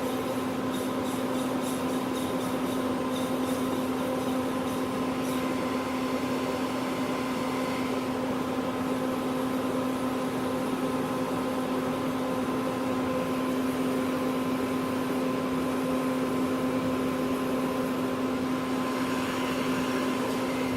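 Citizen M20 CNC Swiss-type lathe running with a steady machine hum that holds one strong constant tone. Faint high ticking sounds over roughly the first five seconds while the turret is being moved through its axes.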